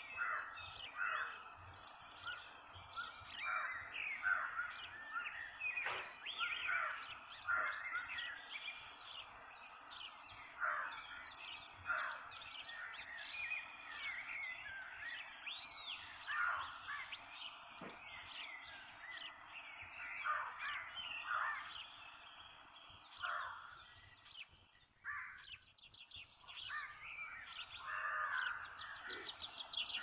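Many birds calling and chirping, a steady run of short whistled calls that rise and fall, over a faint background hiss.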